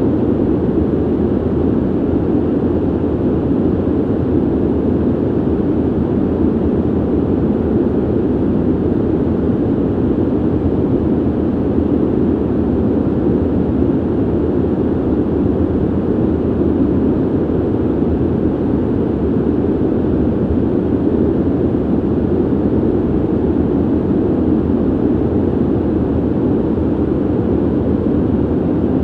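Steady ventilation noise: an even, deep rushing hiss of air through ductwork, strongest in the low range and with no change or rhythm.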